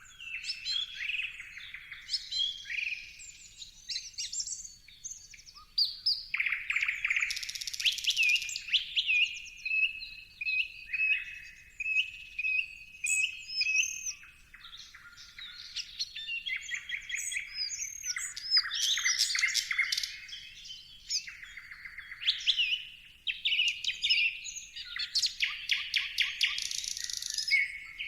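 Several birds singing together: a dense chorus of overlapping chirps and whistles, with fast trills about eight seconds in and again near the end, and a run of evenly repeated notes in between.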